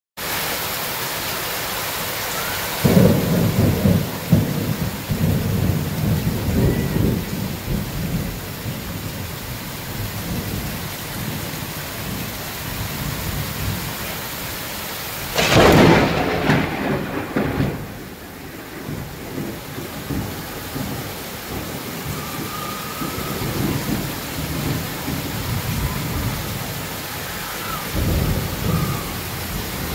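Heavy rain pouring steadily, with low rumbling swells from a few seconds in and a loud rush of noise about halfway through.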